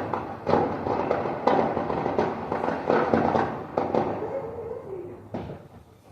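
Fireworks going off: a dense string of crackling bangs with louder bursts about once a second, thinning out near the end.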